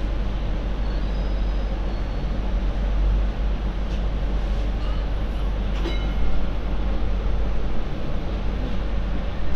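MTR Light Rail Phase IV light rail vehicle running along the track with a steady rumble. There is a faint brief high squeal about a second in and a short knock around six seconds in.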